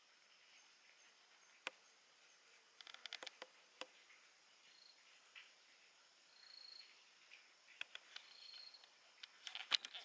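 Near silence with scattered faint sharp clicks, a quick cluster about three seconds in and another near the end, and a few faint short high tones.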